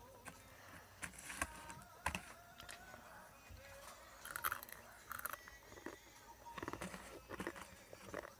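Crunching and chewing of dry, uncooked instant-ramen snack, close to the mouth: a run of sharp, irregular crunches with quieter chewing between them.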